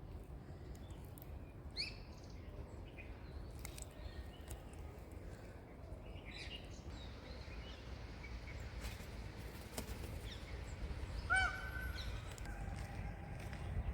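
Several birds chirping and calling, with one short, louder call about eleven seconds in, over a low steady rumble.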